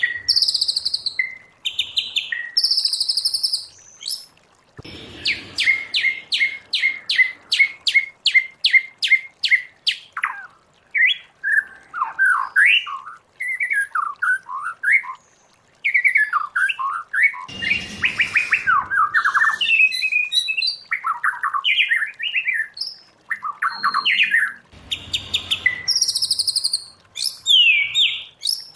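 White-rumped shama singing a varied song: a quick run of evenly repeated sharp notes, then a string of fast rising and falling whistled phrases.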